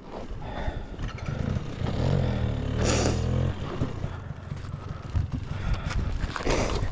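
Dirt bike engine running at low speed on rocky trail, its note strongest a couple of seconds in, with scattered clatter and scraping from the ground.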